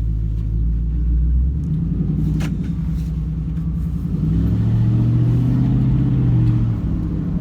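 2007 Ford Mustang GT's V8, heard from inside the cabin, running low at first, then rising in pitch and getting louder from about four seconds in as the car accelerates, and easing off near the end.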